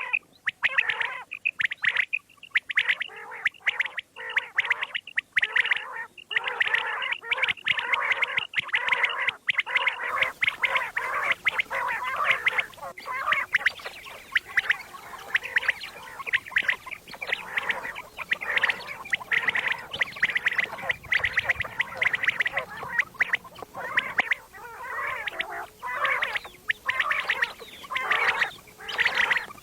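Common quail calling in a dense, rapid chatter of overlapping calls, broken by short gaps. A faint hiss joins about ten seconds in.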